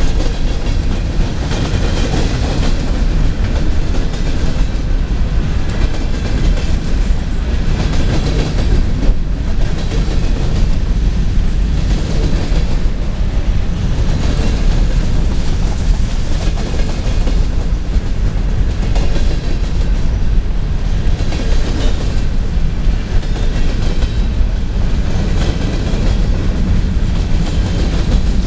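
Freight train of covered hopper cars rolling past close by: a steady heavy rumble of steel wheels on rail, with a clatter that comes back every second or two as the wheel sets cross the rail joints.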